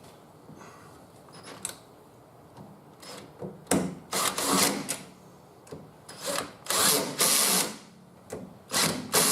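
Power drill running in several short bursts with pauses between, after a few quiet seconds of small clicks: a power tool tightening the nuts that hold a mirror onto a car door.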